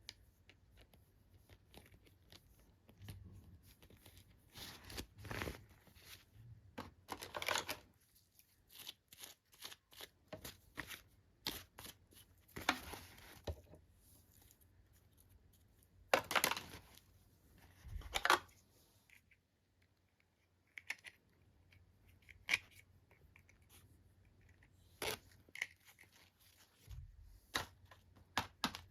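Toy packaging being torn open and handled by hand: a series of short tearing and rustling bursts, with small clicks and taps between them.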